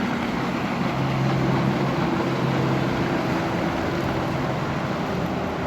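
Motorboat engine running steadily as the boat passes through the inlet, a low, even hum over a wash of wind and water noise.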